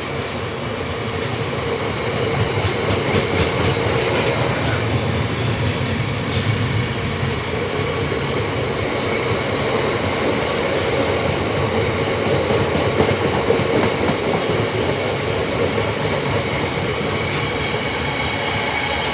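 Wagons of a freight train rolling past steadily, the wheels clicking over the rail joints now and then.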